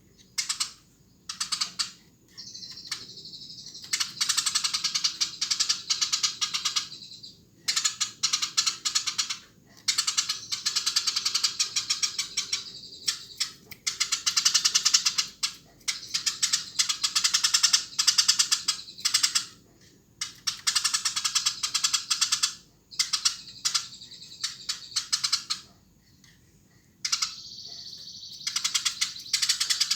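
Sparrow chirping rapidly and vigorously in dense bursts of one to three seconds, with short pauses between them. Some bursts run into a high, continuous trill.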